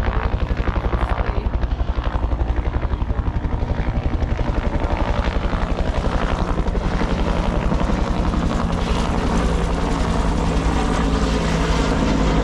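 Helicopter flying low and close overhead, its rotor blades making a loud, fast, even chop that grows slightly louder toward the end.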